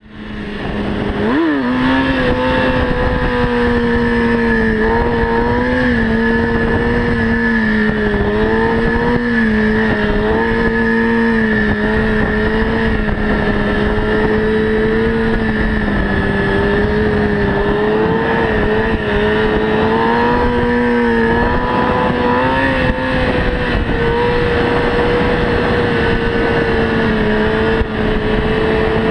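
Motorcycle engine running hard at fairly steady high revs, its note rising and dipping slightly with the throttle, with a quick rev-up about a second and a half in, over a steady rush of wind and road noise.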